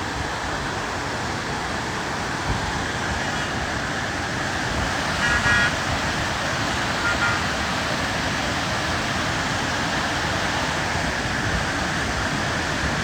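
A steady rush of waterfall and river water with road traffic, and a vehicle horn tooting briefly about five seconds in and again shortly after.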